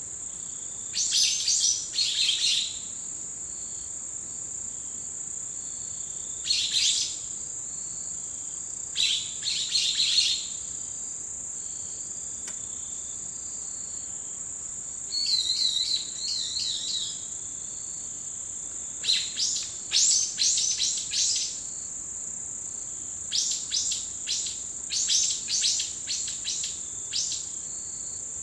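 A steady, high-pitched trill of autumn insects runs throughout, while a bird calls in about six bursts of quick, sharp notes spread through the stretch.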